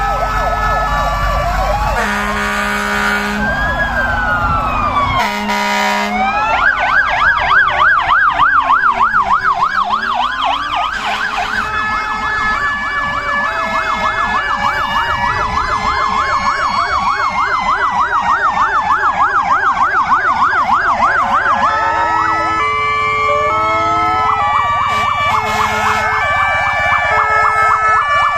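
Many fire engine and emergency vehicle sirens sounding at once, overlapping: slow rising-and-falling wails, fast yelping sweeps, and two-tone hi-lo signals. Two short horn blasts cut in about two and five seconds in.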